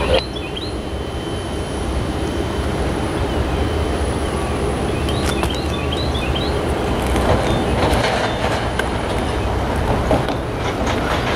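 Approaching train's diesel locomotives heard from a distance: a steady low rumble, with a few short high chirps over it.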